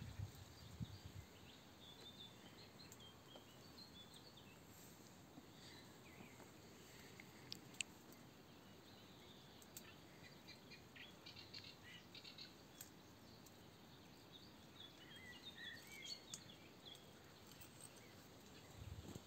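Near silence: faint outdoor ambience with scattered faint bird chirps and a few small clicks.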